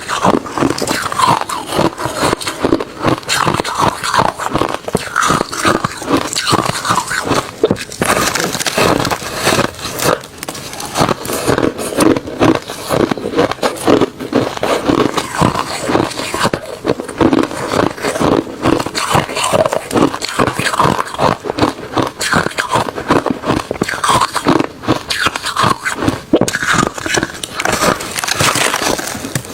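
A person chewing refrozen crushed ice and shaved ice: a continuous run of crunches and crackles as the ice is bitten and ground between the teeth.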